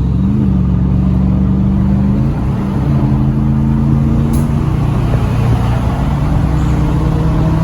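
Truck engine running under way, heard from inside the cab, with a steady low drone that shifts pitch slightly about two and a half seconds in.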